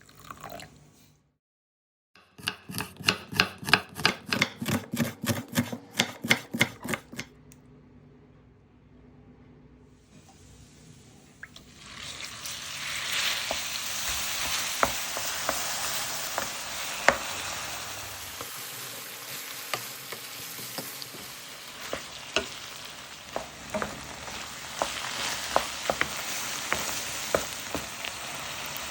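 A fast, even run of knocks for about five seconds, then minced chicken sizzling in hot oil in a pan, a steady hiss broken by sharp clicks and scrapes of a spatula stirring it.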